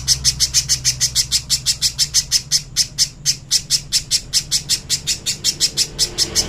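Spiderhunter calling: a rapid, unbroken string of sharp, high chips, about seven a second.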